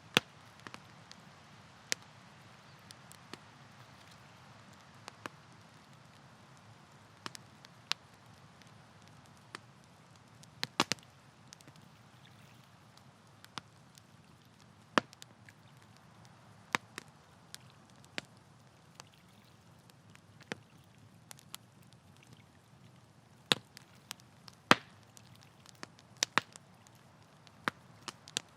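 Wood campfire crackling: irregular sharp pops and snaps, some in quick clusters, over a faint steady hiss.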